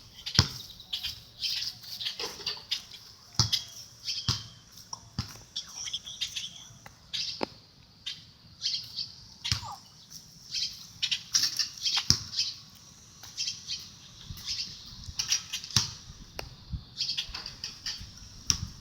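Small birds chirping: many short, high chirps repeating throughout, with a few soft knocks in between.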